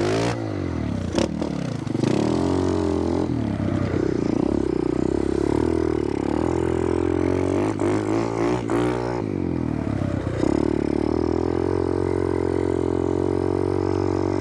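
Small single-cylinder pit bike engine running and being revved, its pitch rising and falling again and again, with a few sharp clacks about a second in and again around eight seconds in.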